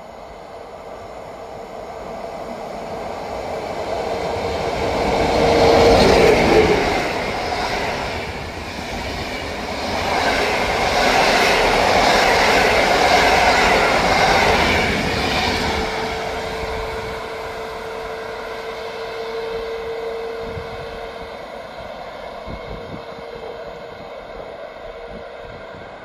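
Passenger train with PKP Intercity coaches passing through a station at speed. It builds up, is loudest as the front of the train goes by about six seconds in, then the coaches rumble and clatter past and the sound slowly fades as the train moves away. A steady hum is heard under it as it approaches and again as it leaves.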